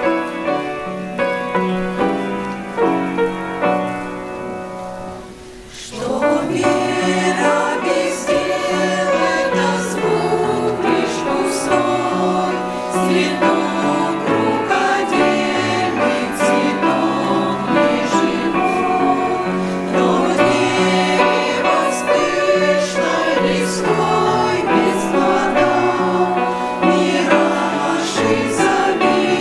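Church choir singing a Christian song with instrumental accompaniment. An instrumental opening of held chords fades away, and the choir comes in about six seconds in.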